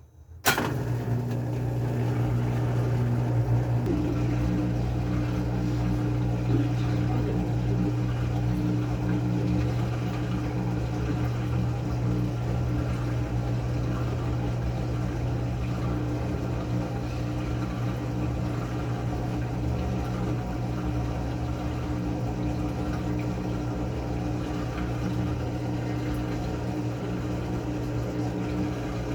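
Washing machine motor switching on abruptly and running with a steady hum that does not change in pitch.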